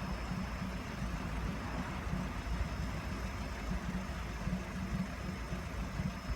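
An engine idling steadily, a low even rumble that stays the same throughout.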